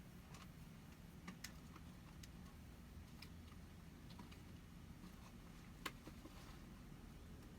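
Near silence, with faint scattered light clicks and ticks every second or so and one slightly sharper click near the end.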